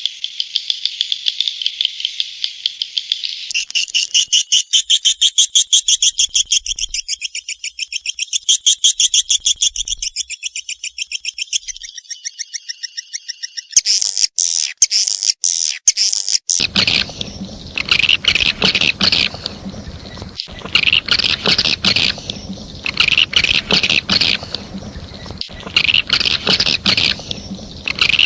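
Swiftlet calling sound, as played to lure swiftlets: rapid trains of high, buzzy twittering chirps that change pattern several times. From a little past the halfway point it turns to repeated bursts of twittering over a fuller background.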